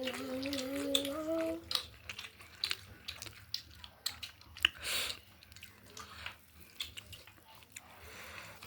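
Eating at the table: chewing with scattered small clicks and taps of food and utensils on a plate, and a short rushing sound about five seconds in. A voice hums a held note for the first second or so.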